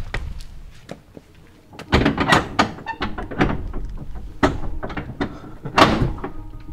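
Footsteps on a rocky trail: irregular thuds and scrapes of hiking boots, with a few louder strikes.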